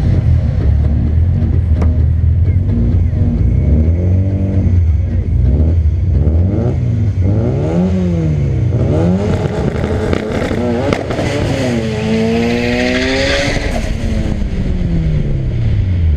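Turbocharged drag-race car engines running loud, revving up and down several times over a steady low rumble. Near the end one climbs in a long rise with a hiss over it, then falls off.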